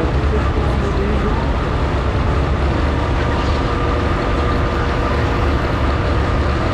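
Antique farm tractor's engine running loud and steady, with no break, and a faint steady whine over it.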